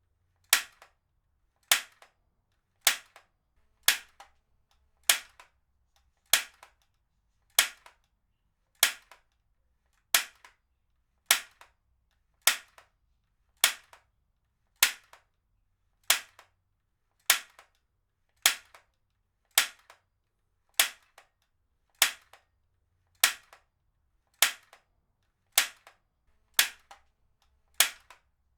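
Heavy-duty stapler being fired over and over at a steady pace, about one sharp snap every 1.2 seconds. Each snap is followed at once by a fainter click.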